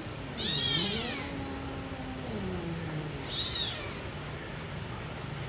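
A cat meowing: two short, high-pitched mews about three seconds apart, each rising then falling in pitch, with a fainter, lower drawn-out call between them.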